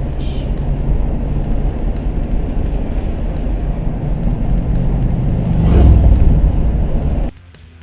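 Engine and road noise inside the cab of a 1973 Chevy Cheyenne 3/4-ton pickup, its 350 small-block V8 running at a steady low rumble while driving. It swells louder about six seconds in, then cuts off abruptly near the end.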